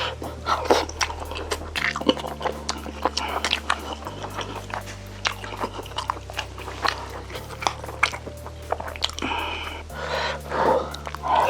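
Close-miked chewing and biting of Korean braised chicken, many short wet clicks and smacks, over background music with slow-changing low notes.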